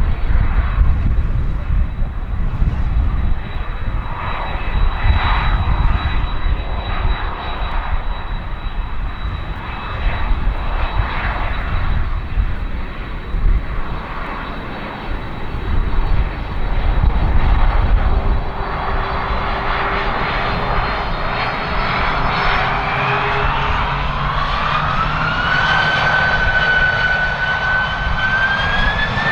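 Boeing 767-300ER's twin jet engines spooling up for takeoff: a heavy low rumble buffeted by wind on the microphone, then in the second half a whine that rises in pitch in steps as thrust builds.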